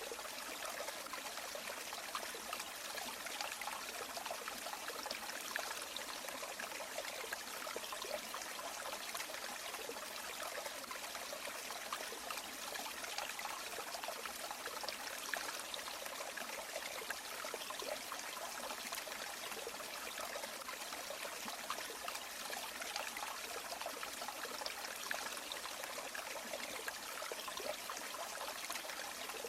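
River water flowing and trickling over rocks, a steady even rush with fine bubbling texture throughout.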